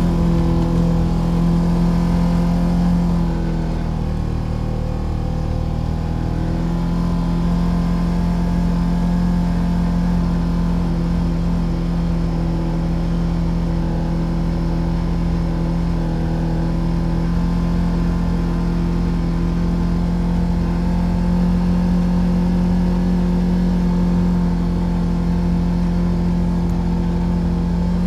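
Polaris RZR Trail side-by-side engine running at a steady pace, its pitch shifting a couple of times a few seconds in and then holding even.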